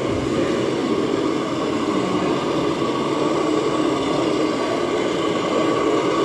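1/14 scale radio-controlled model trucks running, a steady mechanical whir.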